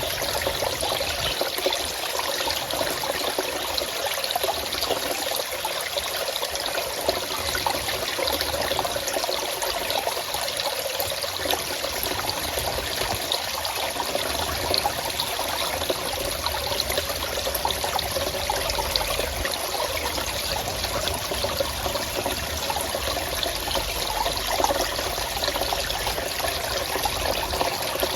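Water trickling and flowing steadily, the continuous rushing of a forest stream.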